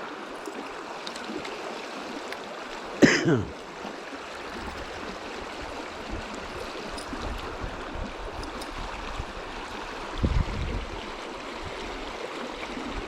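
River water rushing steadily over shallow rock riffles, running with a little more flow than usual. A brief sweep falling in pitch comes about three seconds in, and a low thud about ten seconds in.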